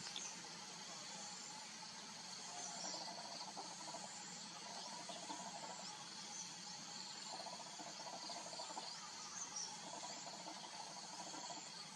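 Forest insects trilling steadily, with a rapid pulsing buzz that comes and goes several times, and short high bird chirps scattered throughout.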